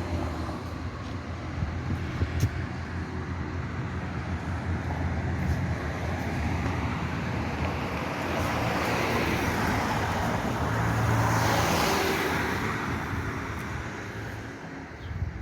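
Road traffic noise, with one vehicle passing close and loudest about eleven to twelve seconds in.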